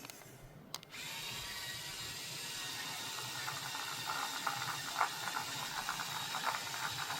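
A toy RC car's small electric motor and gearbox running, a steady whir with irregular clicks and rattles from about four seconds in.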